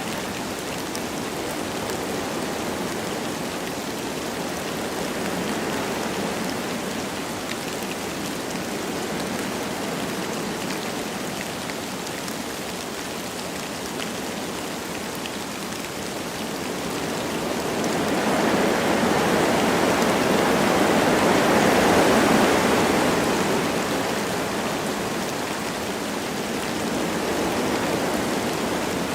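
Wind blowing through forest trees with light rain falling, a steady rushing hiss with scattered drop ticks. The wind swells louder a little past halfway, then eases back.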